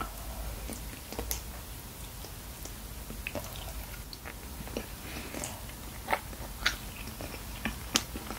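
Close-miked chewing of spicy braised chicken with aged kimchi: wet mouth clicks and smacks, with a few sharper clicks near the end.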